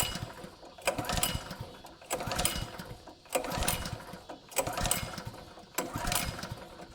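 Honda GX200 engine on a water pump being pull-started: the recoil starter is yanked about once a second, six pulls, each turning the engine over briefly without it catching. The owner suspects a carburetor or fuel delivery problem, as the engine has sat with old gas.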